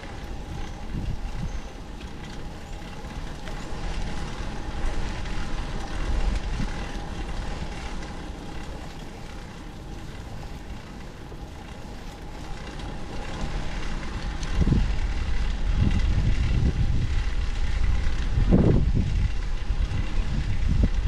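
Wind buffeting the microphone over steady road noise during a bicycle ride. The low rumbling gusts grow louder about two-thirds of the way through.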